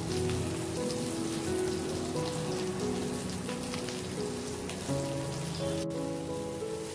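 Eggplant pieces sizzling and crackling as they fry in a pan, under background music of held notes.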